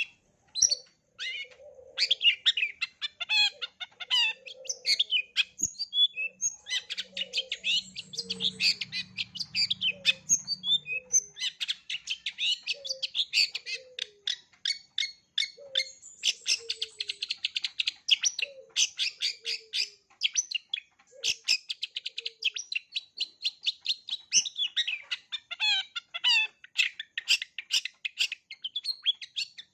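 Long-tailed shrike singing a rapid, unbroken chattering song of varied high notes, the mimicry-rich song used to train young shrikes. A soft lower note repeats about once a second beneath it through much of the song.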